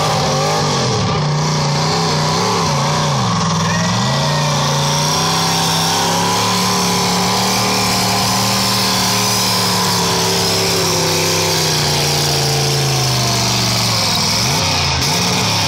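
Engine of a truck-and-tractor-pull vehicle running hard under load. Its pitch swings up and down for the first few seconds, then holds steady through most of the pull, dropping slightly and wavering again near the end.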